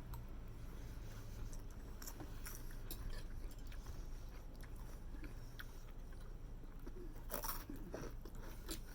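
A person chewing and eating close to the microphone, with scattered small clicks and a brief crunchy noise about seven seconds in.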